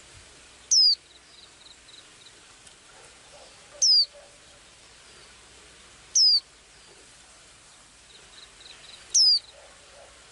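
A small bird calling: a short, high, down-slurred note, four times, about every two and a half to three seconds, with faint soft chirps between.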